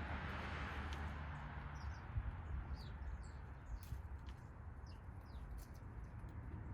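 Small backyard songbirds giving short, high, falling chirps, several in a row from about two and a half seconds in, with a few sharp clicks, over a steady low background rumble.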